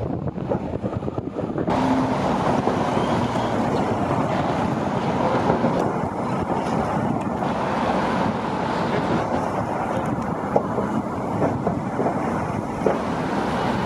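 Wind buffeting an unshielded camera microphone: a steady rushing rumble that gets louder about two seconds in.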